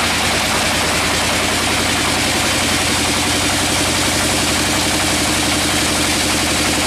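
Sawmill engine running steadily with a rapid, even pulsing.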